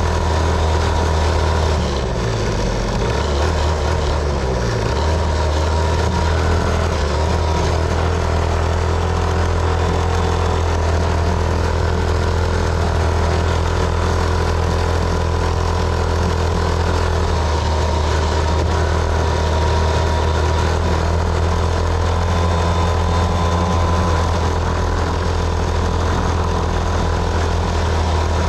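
Small motorcycle engine running at a steady, low hum while the bike is ridden, with a slight wavering of the engine note in the first few seconds; wind and road noise mix in.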